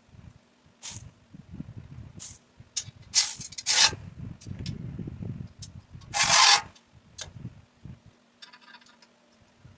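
Metalwork on exhaust header parts: scraping and knocking over a steady low hum, broken by several short loud hissing bursts, the longest about six seconds in.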